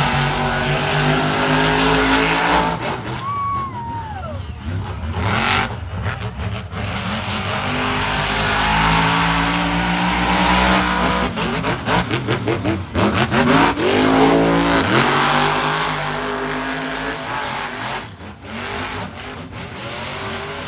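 Monster truck engine revving hard, its pitch climbing and falling several times as the truck runs, with a steep rise about two-thirds of the way through. A brief falling squeal sounds about three seconds in.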